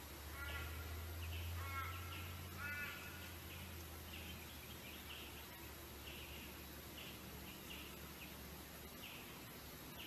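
Small birds chirping repeatedly in short high notes, with three harsher calls in the first three seconds, over a low hum that stops near the end.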